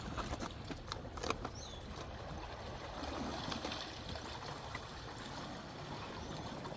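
Seawater washing and trickling over rocks, with a few light clicks in the first second or so.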